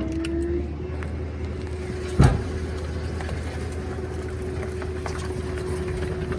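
Garbage truck engine held at raised revs, with a steady whine as the hydraulic packer crushes a king-size mattress. There is one sharp bang about two seconds in.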